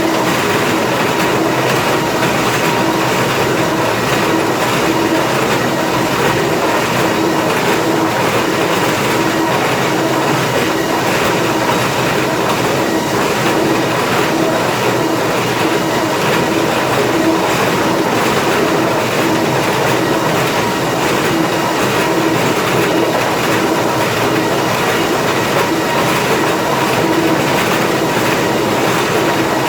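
Planer mill infeed machinery running steadily: a loud, even mechanical noise with a dense rapid clatter, as of boards and chain conveyors, over a steady hum.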